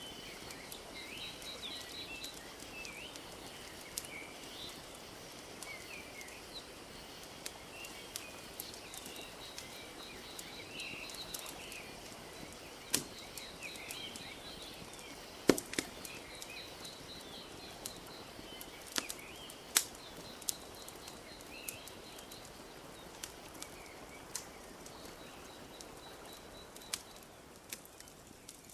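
Wood fire crackling, with occasional sharp pops, over a soft steady wash of lapping lake water, while small birds chirp and trill throughout.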